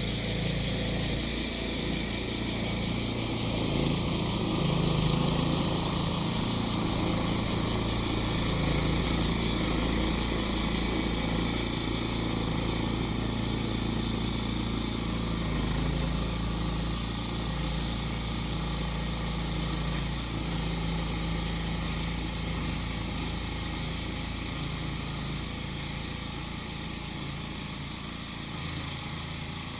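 A grass-cutting mower's engine running steadily, with cicadas buzzing in a pulsing high chorus over it. The engine eases off slightly near the end.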